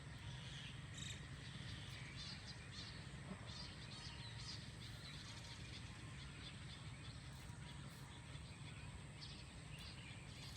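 Faint outdoor ambience: small birds chirping in short bursts, mostly in the first half, over a steady high insect drone and a low rumble.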